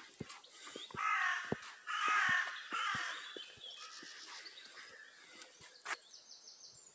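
Harsh bird calls, three in a row about a second apart, each lasting about half a second, over light footsteps on a path.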